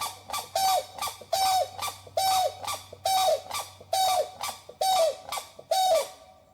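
An animal calling over and over, about nine calls roughly a second and a half apart. Each call is a short held note that drops at its end, and the series stops near the end.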